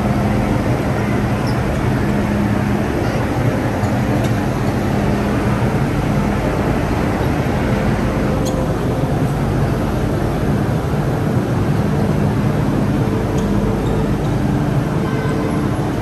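Disneyland Resort Line M-Train heard from aboard: a steady loud rumble with a low hum, and new higher tones coming in near the end.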